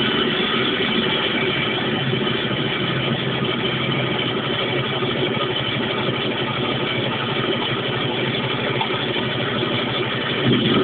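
Fiat 126p's small two-cylinder engine running steadily at an even level.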